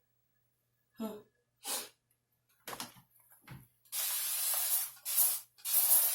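Spray bottle misting water onto hair in several sprays of hiss, starting about four seconds in, to dampen hair styled with gel. A few short, brief sounds come before the spraying.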